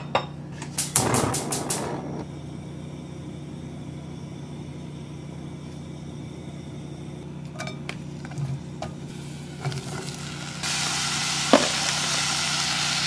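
A quick run of sharp clicks about a second in, then a low steady hum. About ten seconds in a loud frying sizzle starts suddenly and holds: mushrooms going into hot fat in a Staub cast-iron cocotte to be stir-fried.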